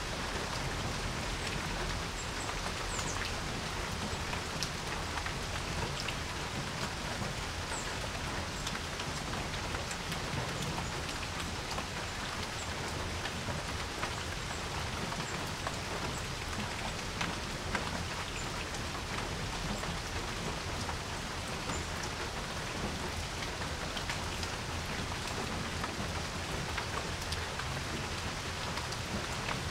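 Steady rain falling on a porch, a continuous hiss with many separate drops ticking on the surface.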